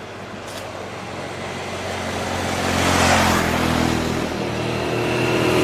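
A motor vehicle engine grows steadily louder and passes close, loudest about three seconds in, then engine running continues steadily.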